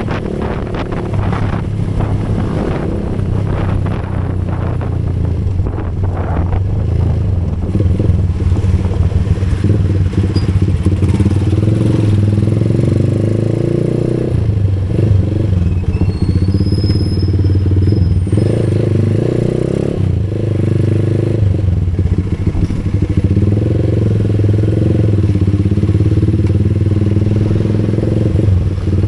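A vehicle engine running steadily under way, its pitch shifting a little with speed, with rattling and clattering in the first few seconds.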